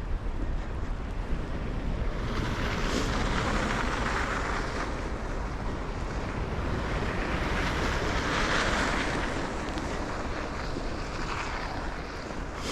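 Wind rumbling on the microphone, with traffic passing on a snowy street: two vehicles' tyre hiss swells and fades, about two to five seconds in and again around eight to ten seconds.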